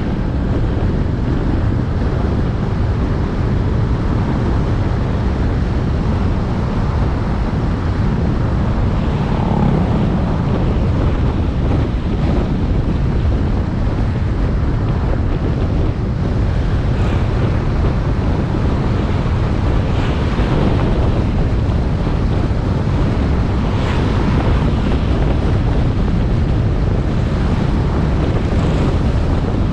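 Wind buffeting a GoPro Hero 7 Black's microphone on a moving motorbike: a steady, heavy low rumble that covers most of the engine and road noise.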